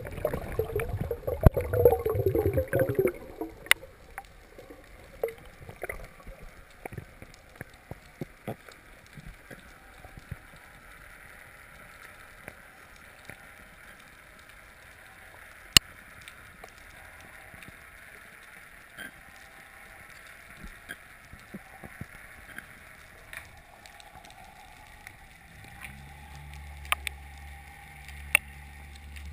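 Underwater sound picked up through a GoPro's housing. A gurgling rush of water or bubbles for the first few seconds gives way to a steady hiss with scattered sharp clicks, and a low steady hum comes in near the end.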